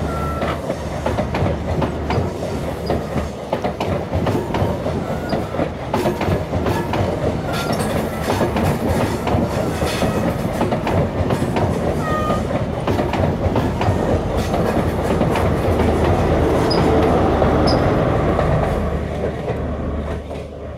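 InterCity 125 High Speed Train passing: the coaches' wheels clatter over rail joints with a few brief wheel squeals on the curve, under a steady diesel rumble. It is loudest as the rear Class 43 power car goes by near the end, then starts to fade away.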